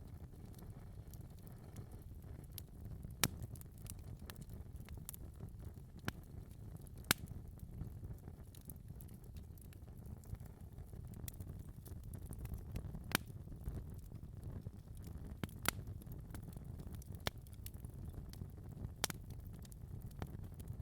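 Wood fire crackling in a fireplace: a steady low rumble from the flames, with sharp pops and snaps every few seconds.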